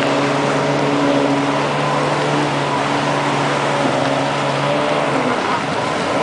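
Jet ski engine running at a steady pitch over a continuous rushing noise; its note changes about five seconds in.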